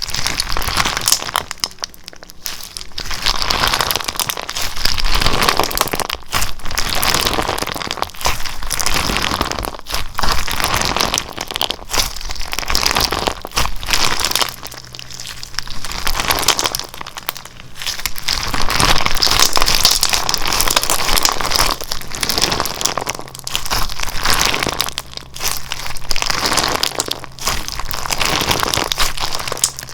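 Slime being squeezed and folded by hand, making dense crackling and popping sounds that swell and fade every couple of seconds.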